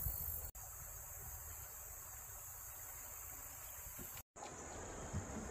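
Steady chorus of insects, a continuous high-pitched buzz, over faint low background noise. The sound cuts out for an instant a little over four seconds in.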